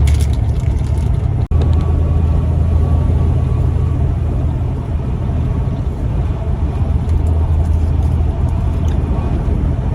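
Semi truck under way, heard from inside the cab: a steady low engine and road drone.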